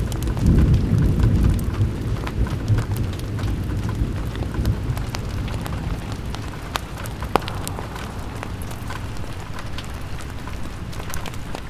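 Steady rain with a low rumble of thunder that fades away over the first several seconds, and scattered sharp ticks and crackles throughout.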